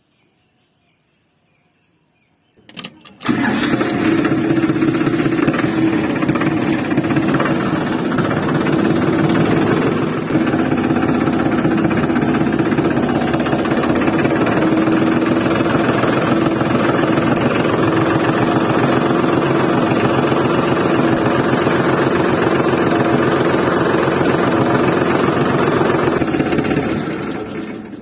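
Small diesel engine starting about three seconds in, after a few clicks, then running steadily at a constant speed before falling away near the end.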